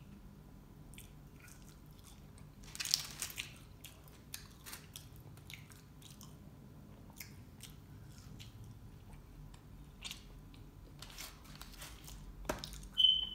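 Close-miked eating: biting and chewing fried chicken wings and French fries, with small wet mouth clicks and crunches. Louder crunchy bursts come about three seconds in and again near the end.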